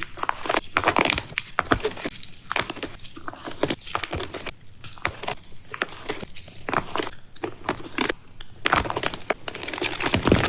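Packaging being crinkled, crushed and crackled close to the microphone in an ASMR unboxing, a dense run of irregular sharp crackles.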